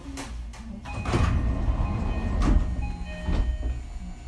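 Inside a JR Kyushu BEC819 battery-electric railcar standing at a station: a steady low hum with several sharp knocks and a few short beeping tones.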